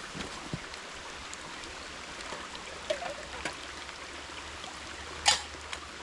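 Stream water running steadily, with a few faint clicks and one short, sharp noise about five seconds in, the loudest moment.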